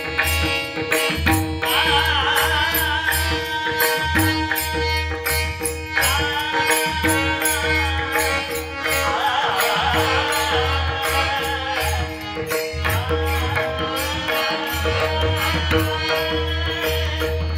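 A male voice singing a devotional song in long, ornamented phrases that bend in pitch, over a steady held drone and a mridang playing a repeating pattern of deep strokes. The voice comes in about two seconds in.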